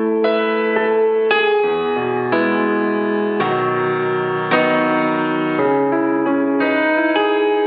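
Music: slow piano chords, each held for about a second, with no singing.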